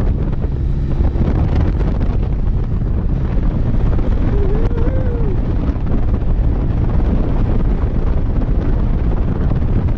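Wind buffeting the microphone on a moving motorcycle, over the low, steady rumble of the engine. About halfway through, a short tone rises and falls.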